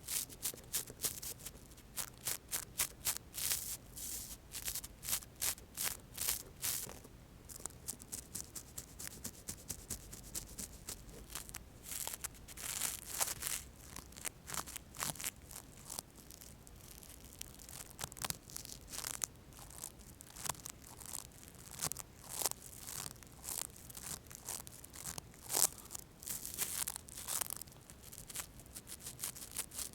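Molar toothbrush bristles brushed in quick repeated strokes: a scratchy rustling of several strokes a second, broken by a few longer swishes.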